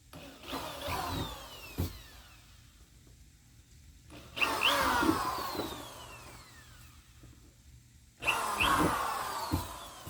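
Power drill boring holes through a plastic kayak hull, run in three bursts a few seconds apart, its pitch falling as each burst winds down.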